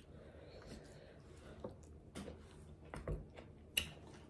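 Faint close-up chewing and mouth noises of someone eating a forkful of a Chipotle burrito bowl, with a few soft clicks, the sharpest near the end.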